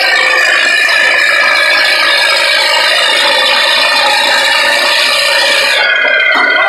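Diesel engines of YuMZ tractors running hard under load in a tractor pull: a loud, steady, rattling drone. About six seconds in, the hiss on top drops away.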